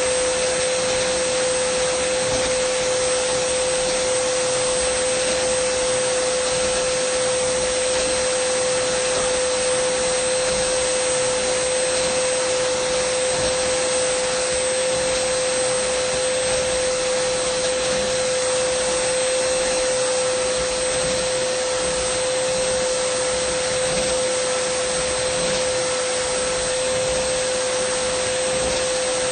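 Dyson vacuum cleaner running steadily, a constant whine over a rushing airflow hiss.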